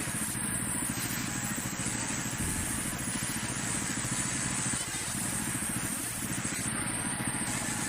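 Sawmill machinery running steadily: an engine-like drone with a fast, even low pulse.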